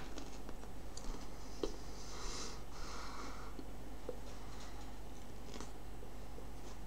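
Person chewing a raw habanero pepper with soft wet mouth clicks, and a breath drawn in and let out through the nose about two seconds in.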